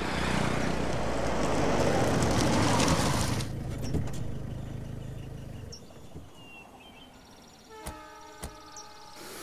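A jeep driving fast along the road, its engine and tyre noise swelling for about three seconds and then cutting off abruptly, followed by a low engine hum that fades out. Near the end comes a short pitched tone with two sharp clicks.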